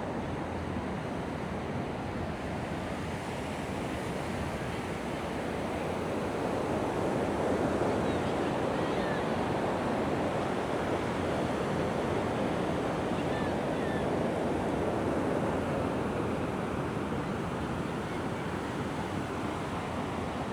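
Mediterranean surf washing onto a sandy beach: a steady rush of waves that swells louder in the middle and eases off near the end.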